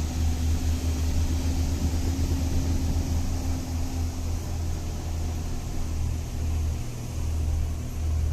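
Truck engine running with a steady, pulsing low drone; a steady higher hum over it fades out about four seconds in.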